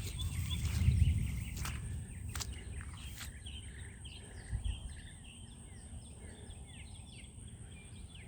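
Birds chirping in short, rapid calls over a steady high-pitched insect drone. A low rumble on the microphone swells about a second in and fades over the next two seconds.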